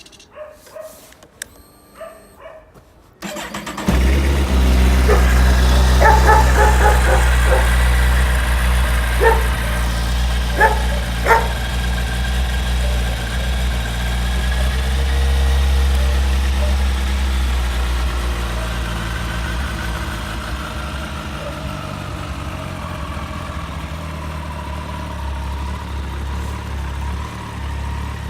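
Kawasaki ZZR1400's inline-four engine starting about three seconds in, then idling steadily, gradually getting quieter. A dog barks a few times before the start and during the first seconds of the idle.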